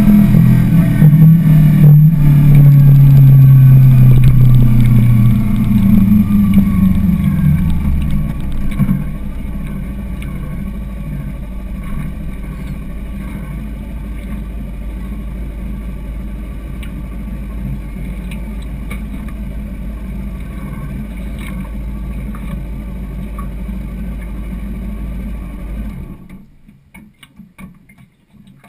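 Kawasaki motorcycle engine slowing down, its pitch falling as the bike comes to a stop. It then idles steadily and is shut off near the end, leaving only faint sounds.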